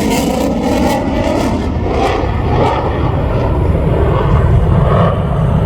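Loud jet noise from the F-35C Lightning II's single F135 turbofan as it flies its demonstration. A high hiss fades over the first two seconds while a low rumble builds toward the end.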